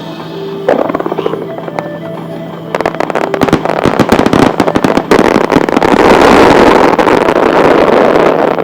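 Aerial fireworks crackling: scattered sharp pops about a second in, then a fast, thickening crackle that becomes a dense, loud sizzle through the second half.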